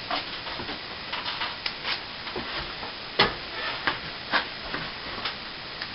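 Irregular scraping and tapping of plastering hand tools, with a few sharper knocks, the loudest about three seconds in.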